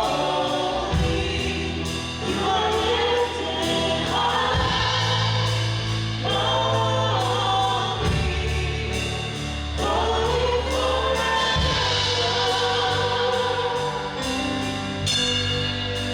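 A worship song in a church service: voices singing together over a band, with held bass notes and a steady beat.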